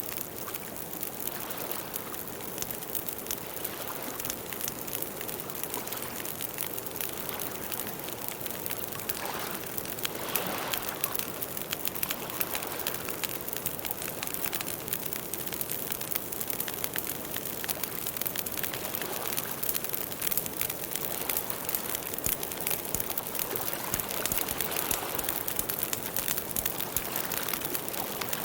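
Campfire burning with a steady crackle: a dense run of small sharp pops and snaps over a soft hiss of flame, swelling briefly about ten seconds in.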